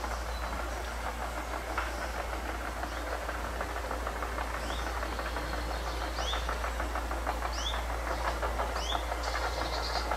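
A steady rushing noise with a constant low rumble, and small birds chirping over it in quick runs of short rising notes.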